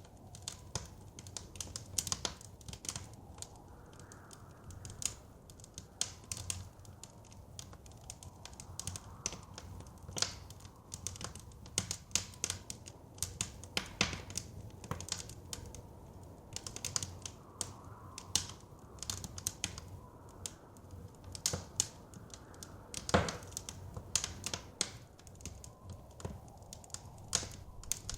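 Wood fire crackling in a fireplace: a steady stream of irregular sharp pops and snaps, one louder pop near the end, over a low rumble. Soft blizzard wind swells faintly underneath.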